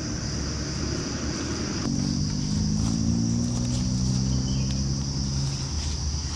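Steady high drone of tropical forest insects, with a low hum of several steady tones from about two seconds in until near the end.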